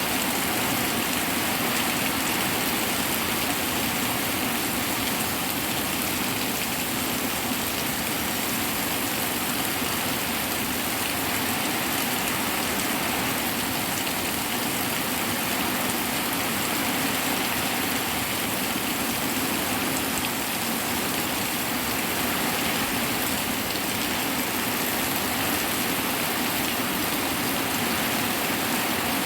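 Hard rain falling steadily, a dense, even hiss with no letup and no thunderclap.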